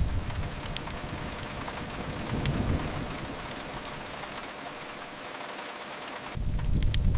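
Steady rain with scattered sharp crackles from a fireplace. A deep low rumble fades away early on and comes back abruptly about six seconds in.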